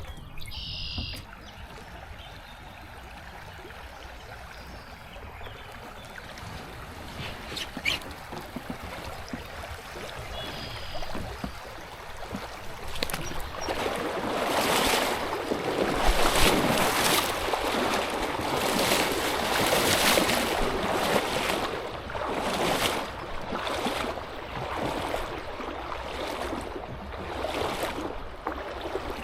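Kayak paddle strokes in creek water, a swishing splash about once a second, starting about halfway through. Before that, a quieter steady hiss of moving water with a couple of short bird chirps.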